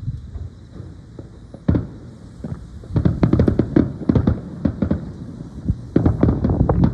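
Aerial fireworks exploding: a single bang about two seconds in, then rapid volleys of bangs and crackles, one in the middle and another near the end.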